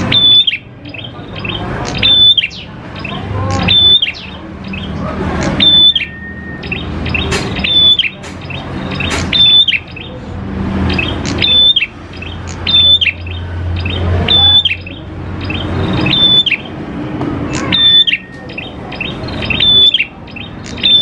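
Prenjak klawu songbird calling over and over, a loud phrase about every two seconds, each swelling and ending in a sharp high note.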